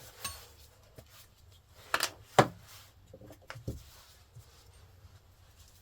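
A few sharp knocks and clatters of hard objects being handled or set down, the loudest about two and a half seconds in.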